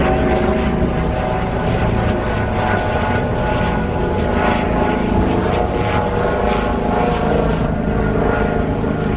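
A loud, steady engine drone holding one pitch, with several tones layered over a rumble.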